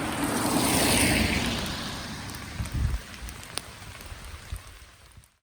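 Rain pattering steadily, with a swelling whoosh about a second in and a few low thumps and clicks, fading out to silence near the end.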